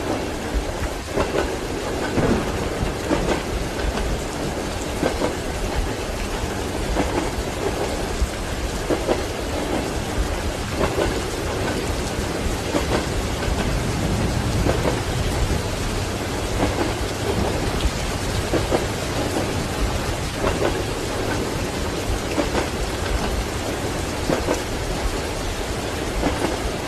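Steady heavy rain with rolling thunder, a low rumble swelling around the middle, over the rhythmic clack of train wheels passing rail joints, as heard from inside a train compartment.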